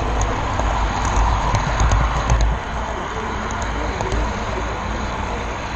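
A model railroad camera car rolling along the track, its wheels making a steady rumble with scattered clicks over rail joints. The rumble drops a little about halfway through.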